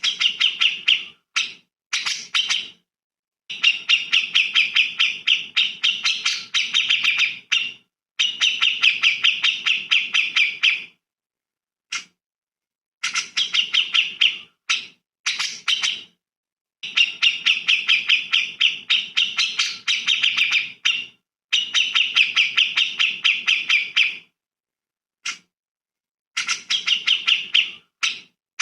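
Songbird song: fast chattering trills of rapid repeated notes, in bursts of one to four seconds with short silent gaps between them.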